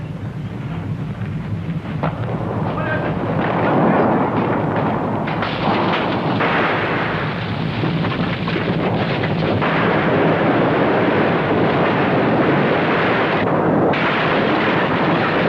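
Earthquake sound effect: a heavy rumble swells over the first few seconds into a sustained loud din of shaking and crashing.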